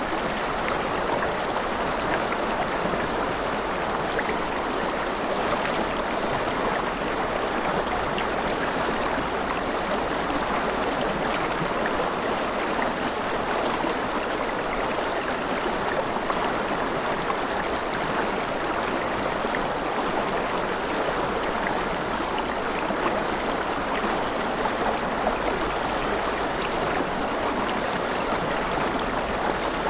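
River water flowing and splashing in a steady, even rush, with no breaks or changes.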